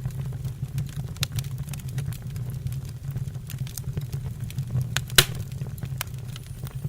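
Wood fire burning in a fireplace: irregular crackles and snaps over a steady low rumble, with one louder pop about five seconds in.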